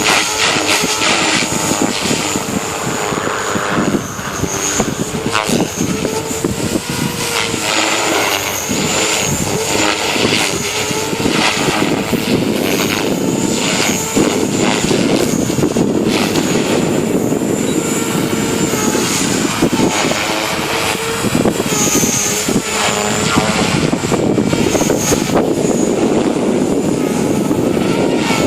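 JR Forza 450 radio-controlled helicopter in flight, its rotor and motor whine wavering up and down in pitch, with strong wind gusting across the microphone.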